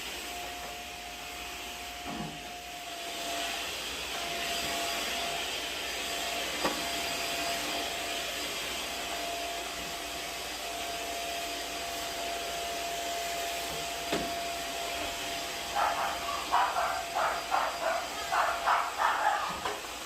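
Vacuum cleaner running with a steady whine. Near the end a dog barks in a rapid series over it.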